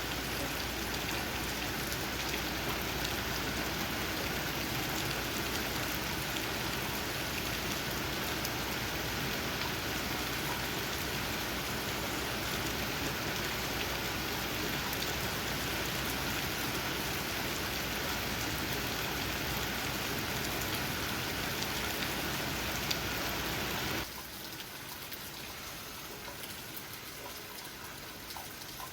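Steady rain pattering on leaves, an even hiss. About 24 seconds in it drops suddenly to a quieter, thinner rain.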